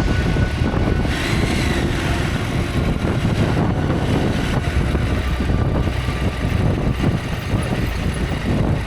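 Motorcycle engine running steadily, with a dense low rumble.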